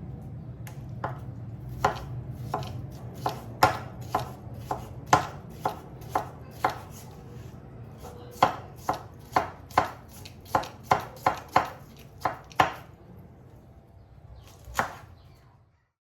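Knife chopping food on a cutting board: a run of sharp, uneven knocks, one or two a second, stopping shortly before the end.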